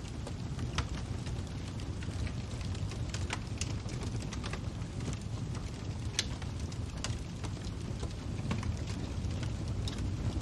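Fire crackling: a steady low rumble of flames with irregular sharp pops and snaps scattered through it.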